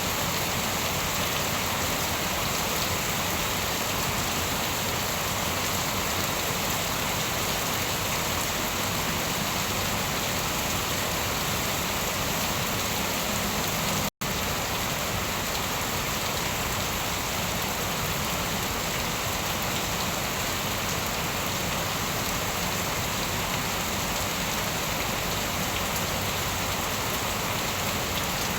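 Steady, dense rain falling. About halfway through, the sound drops out to silence for a split second and then resumes unchanged.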